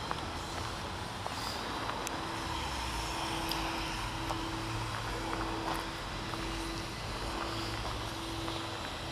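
A vehicle engine running: a steady low hum with a mid-pitched tone that swells and fades about once a second.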